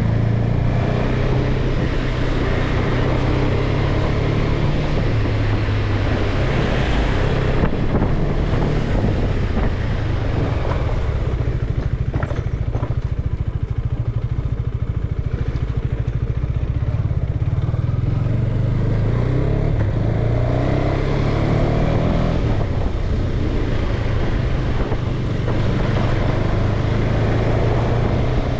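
Motorcycle engine running under way, with a steady low drone and noise over it; in the second half the engine note rises in pitch several times as it picks up speed.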